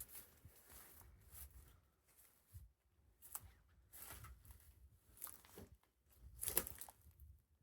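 Faint, irregular footsteps through a field, with wind gusting on the microphone as a low uneven rumble; the loudest step or rustle comes about six and a half seconds in.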